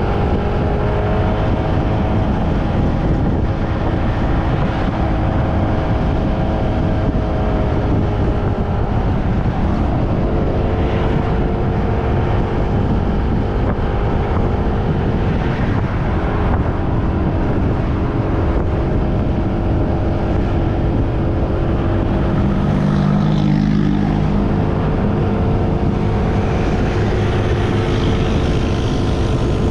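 Motorbike engine running at steady cruising speed, its note drifting slightly up and down, under a heavy rumble of wind on the microphone. Briefly, about three-quarters of the way through, a lower-pitched engine note joins in.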